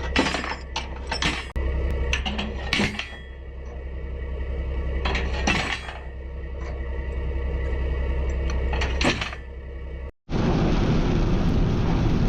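Metal clanks and knocks from lowboy trailer ramps being folded up, over a steady low hum of an idling truck engine. A little after ten seconds in, the sound cuts to a loud, even rushing noise.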